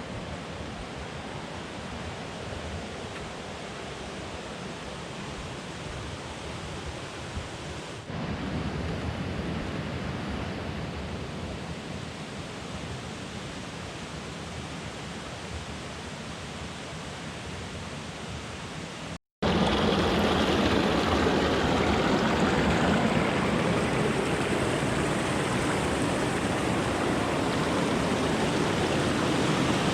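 Steady rush of falling water at Veterans Falls. It jumps abruptly louder about a quarter of the way in and again, much louder, after a brief dropout a little past the middle.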